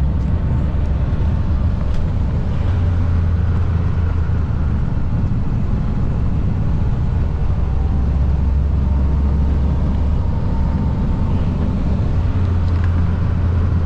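Semi truck running down the road: a steady low rumble of engine and road noise.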